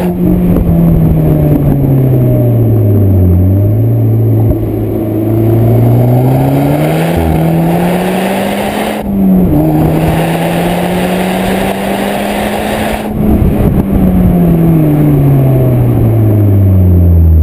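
Seat Leon Cupra R's turbocharged four-cylinder engine and exhaust, Stage 2 tuned with a downpipe and high-flow sport cat, under way: the revs fall, then climb steadily, drop sharply at a gear change about nine seconds in, climb again, and fall away after about thirteen seconds.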